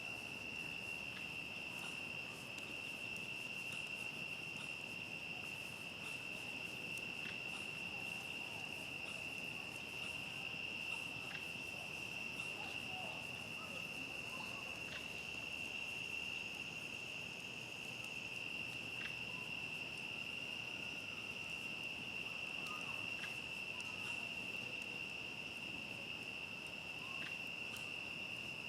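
A steady, unbroken chorus of crickets singing at a high pitch, with scattered faint pops from a crackling campfire.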